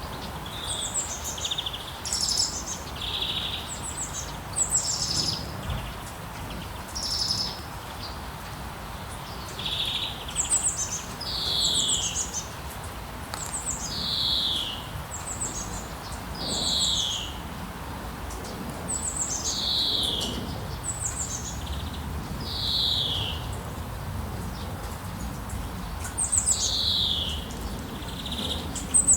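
Small songbirds chirping repeatedly: short high calls that sweep down in pitch, one every second or two, over a steady low background hiss.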